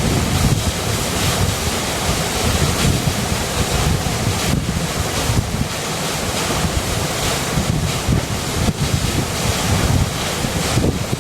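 River water rushing in a steady, unbroken wash of noise with a deep rumble underneath.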